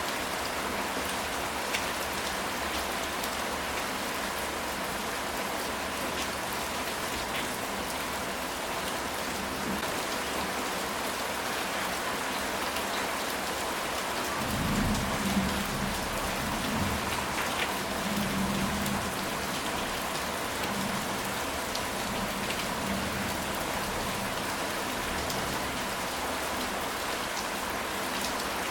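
Steady rain falling on a ceramic tile roof, with a low roll of thunder about halfway through that swells a few times over several seconds and then fades back into the rain.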